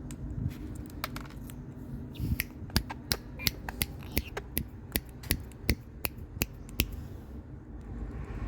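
Indian ringneck parrot making a run of sharp clicks, about two or three a second, that stop shortly before the end.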